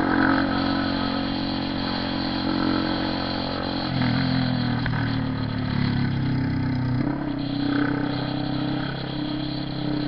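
Honda CB 300R motorcycle engine running under way, a steady engine note that shifts in speed about four seconds in and again about seven seconds in.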